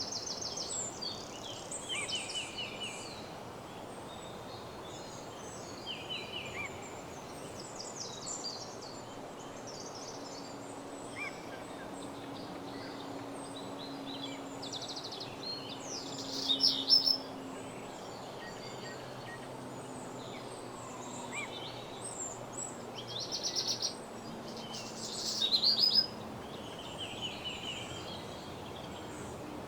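Woodland songbirds singing: many short repeated trills and chirps over a steady background hiss, with two louder bursts of song, a little past halfway and near the end.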